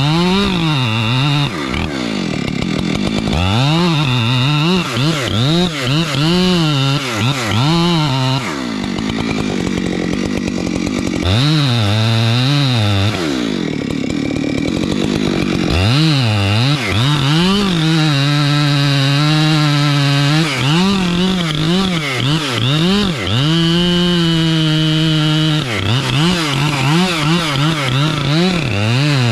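Two-stroke chainsaw cutting into a large dead gum trunk, the engine revving up and falling back again and again, with longer stretches held at full throttle in the cut. The cutting is the face cut (scarf) for felling the trunk.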